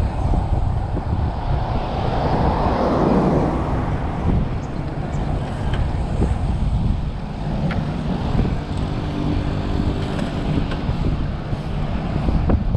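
Wind buffeting the microphone of a bicycle descending at speed, a steady low rumble. About two to three seconds in, a passing vehicle's sound falls in pitch as it goes by.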